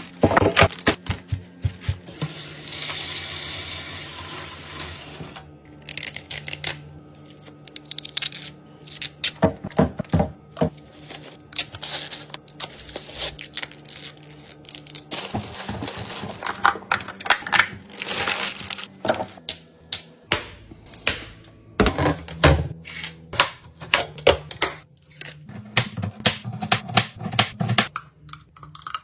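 Repeated clicks, knocks and clatter of plastic containers, lids and bottles being handled and set down, with a stretch of water-like running or pouring hiss a couple of seconds in.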